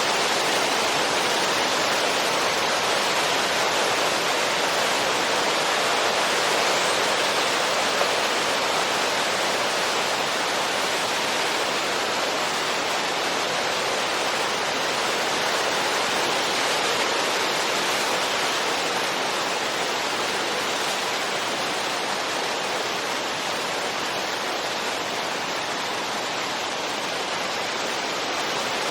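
Steady wind noise: an even, unbroken rushing hiss with no gusts or distinct events.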